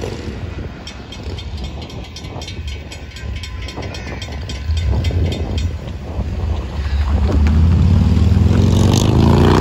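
Grade-crossing bell ringing steadily as Florida East Coast Railway diesel locomotives approach; a deep engine rumble builds and becomes much louder over the last few seconds, with a rising whine near the end.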